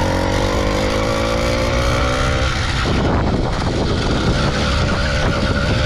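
Small two-stroke engine of an 80cc motorized bicycle running at high revs under throttle, its note climbing slightly. About three seconds in, the steady note breaks up into a rough, noisy sound.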